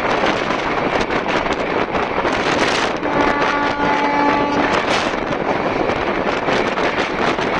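Express train running at speed, heard at an open window: a steady rush of wind and running noise with irregular sharp clicks from the wheels on the track. About three seconds in, a steady pitched tone sounds for under two seconds over the noise.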